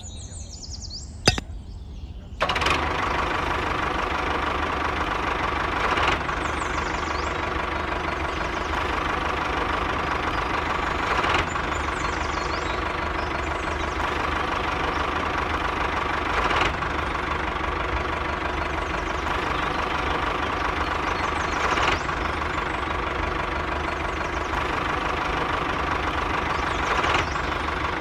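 A small motor starts running suddenly about two and a half seconds in and keeps going steadily with a steady hum, swelling briefly about every five seconds. A single sharp click comes about a second in, before it starts.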